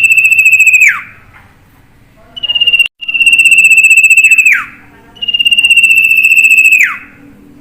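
Sirtu bird calling: a high, rapidly pulsed trill about a second and a half long that ends in a falling glide, repeated with short pauses. One call is already under way at the start, a short one near three seconds in is cut off abruptly, then two full calls follow.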